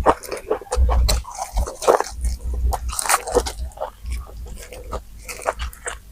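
Close-miked eating sounds: biting and chewing food, a quick irregular string of wet clicks and smacks.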